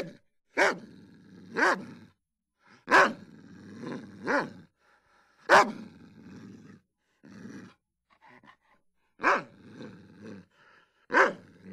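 A dog barking: single barks about one to one and a half seconds apart, with a longer pause just past the middle and softer sounds between some of the barks.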